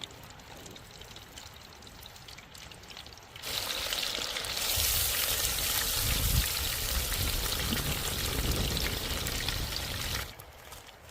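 Liquid poured in a steady stream, splashing into a vessel; it starts about three seconds in and stops abruptly about a second before the end.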